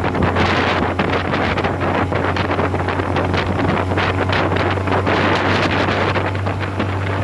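Honda 20 hp four-stroke outboard running steadily at cruising speed on a small aluminum boat, a constant low drone, under heavy wind buffeting the microphone and rushing water.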